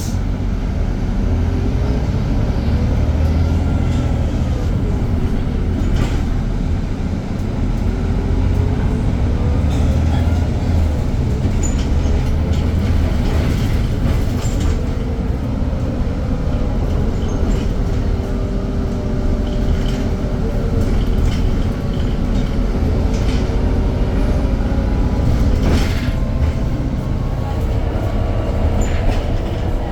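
Irisbus Citelis 10-metre diesel city bus running, a heavy low rumble with a drivetrain whine that rises and falls in pitch as the bus gathers and loses speed, then holds steady. A few sharp knocks or rattles, one about six seconds in and another near the end.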